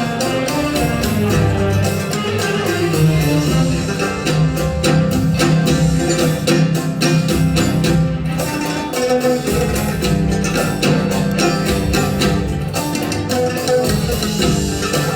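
Live instrumental music led by a plucked string instrument, playing a run of quick, repeated notes at a steady loudness.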